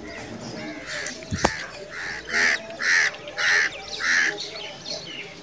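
A bird calling four times in a row, the calls evenly spaced a little over half a second apart, with a sharp click just before them.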